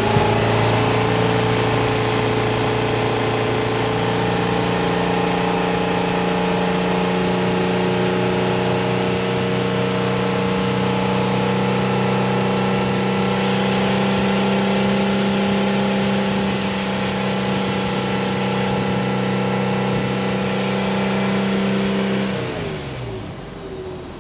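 2010 Infiniti M35's 3.5-litre V6 running at a steady idle. Near the end it is switched off, and its note drops away as the engine winds down.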